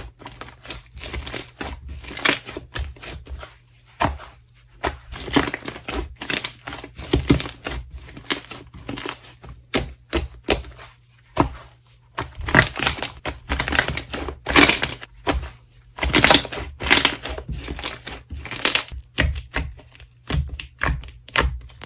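Slime being squished and pressed by hand, giving fast, irregular crackling and clicking.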